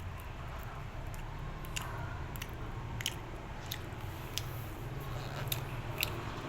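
Someone eating, with sharp crunchy bites and clicks at uneven intervals, over a low steady hum.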